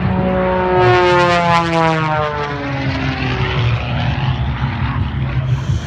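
Aerobatic propeller plane passing low and close: its engine and propeller drone falls steadily in pitch as it goes by.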